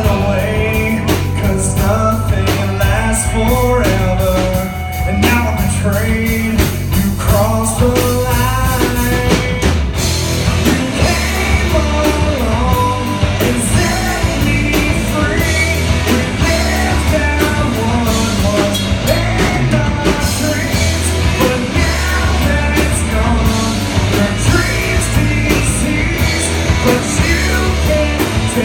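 Rock band playing live: a voice singing over guitar, bass and drum kit, loud and without a break.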